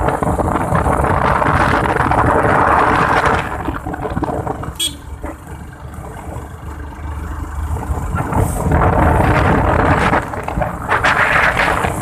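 Motorbike running on the move, with wind and road noise; it eases off for a few seconds midway, then picks up again.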